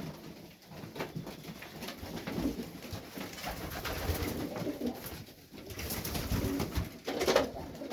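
Domestic pigeons cooing continuously, with a few short rustling scuffs, the loudest near the end.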